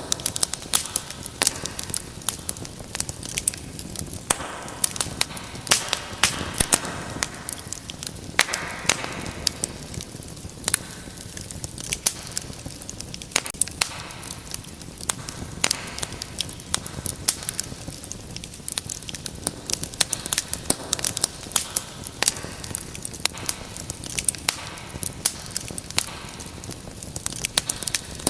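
Wood fire crackling: irregular sharp pops and snaps over a steady low hiss of burning logs.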